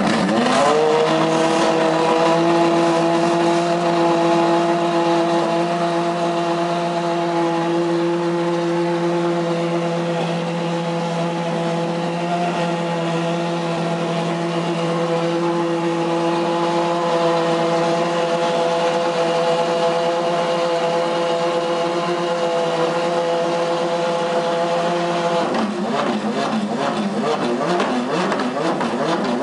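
Ferrari FXX's V12 engine firing up cold: the revs rise within the first second, then it settles into a steady high idle. Near the end the revs start to waver up and down unevenly and climb.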